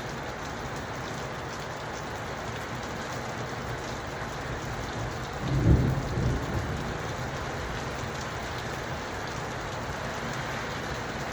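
Steady rain falling, with a short low rumble of thunder about halfway through that swells suddenly and dies away within about a second and a half.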